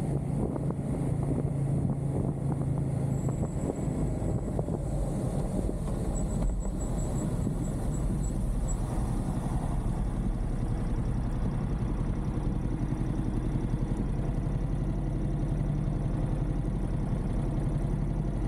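Motorcycle engine idling steadily. A faint high electronic tone comes in about three seconds in and breaks into a string of quick beeps, which stop a few seconds later.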